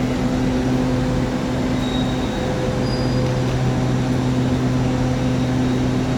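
Train standing at the platform, running with a steady low hum.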